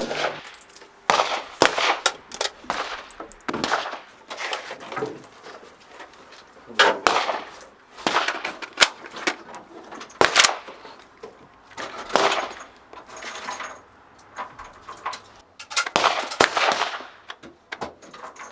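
Single gunshots from a Steyr AUG (StG 77) bullpup rifle, fired one at a time at irregular intervals, each with a short ringing echo; some shots are louder than others.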